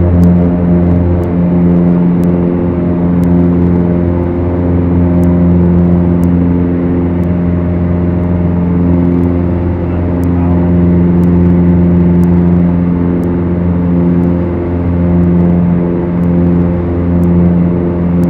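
Beechcraft Duchess twin piston engines and propellers running steadily, a loud low drone that slowly swells and fades. Faint clicks recur about once a second.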